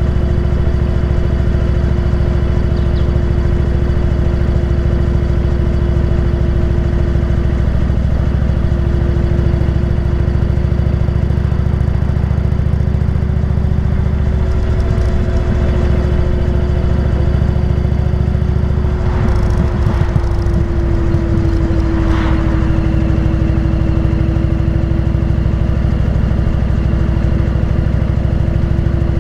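Motorcycle engine running steadily at cruising speed, with its pitch dropping slightly about two-thirds of the way through. Brief rushing noise around twenty seconds in.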